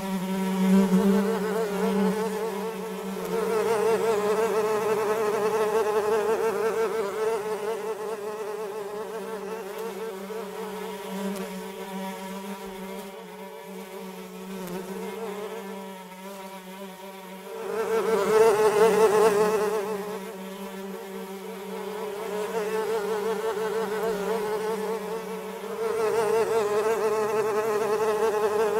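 Flies buzzing in flight, a steady droning hum at two pitches from more than one fly. It swells and fades as they come and go, and is loudest about two-thirds of the way through.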